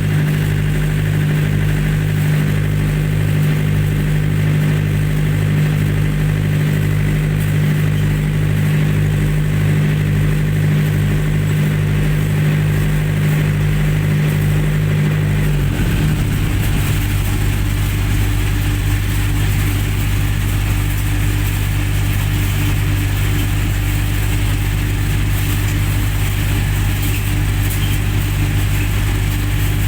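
Generator set engine running steadily; about halfway through its tone drops abruptly and it settles into a lower, smoother running note.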